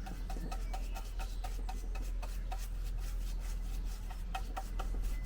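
Paintbrush dabbing and scrubbing wood stain into carved wood, a quick run of short, irregular strokes.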